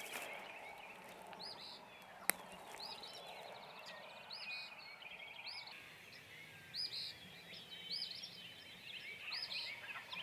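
Several wild turkeys gobbling from a distance, answering one another, over songbirds chirping repeatedly. A single sharp click about two seconds in.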